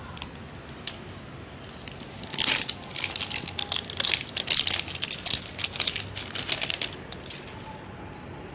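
Crinkly wrapping on a LOL Surprise ball layer being torn open and crumpled by hand. After a few scattered crackles, a busy run of crinkling starts about two seconds in and stops about a second before the end.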